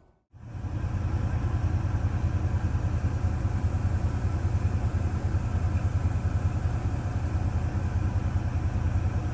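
An engine idling steadily with a fast, even pulse. It starts abruptly just after the beginning.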